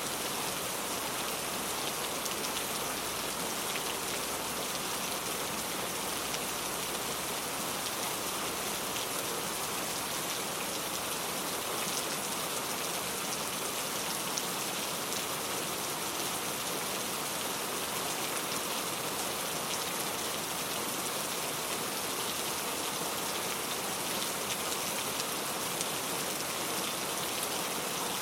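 Steady rainfall: a dense, even patter of drops, with a few sharper single drop ticks scattered through it.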